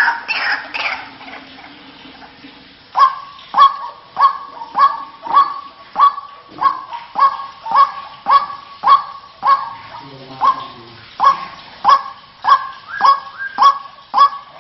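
White-breasted waterhen (ruak-ruak) calling: a dense tangle of calls fades out in the first second, then after a short lull a loud, harsh call repeats steadily about every 0.6 seconds, as on a lure recording.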